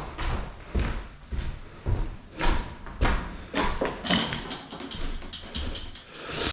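Debris being swept up with a broom: irregular scraping strokes with knocks and thumps of loose rubble, and a busier rattle of small pieces about four seconds in.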